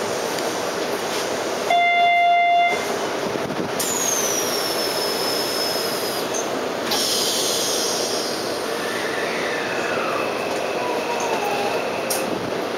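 Hanshin 5700 series electric train heard from inside the car, pulling away over steady rail running noise. About two seconds in a loud electronic tone sounds for about a second. From about four seconds the drive's motor-inverter whine glides down in pitch several times as the train gathers speed; its permanent-magnet synchronous motors are very quiet.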